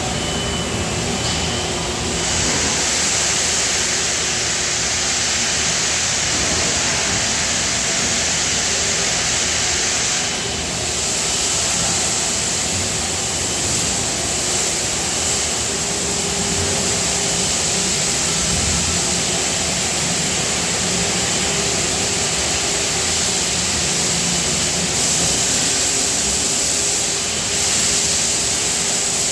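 Steady factory machinery noise in a die-casting shop: a constant loud hiss with a faint hum beneath it, unchanging throughout.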